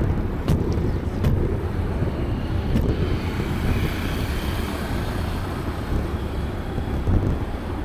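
Wind buffeting the microphone of a camera on a moving bicycle, a steady low rumble, with a few sharp clicks in the first three seconds.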